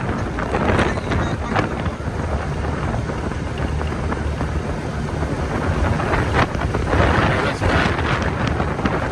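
Wind buffeting the microphone over a steady low engine rumble.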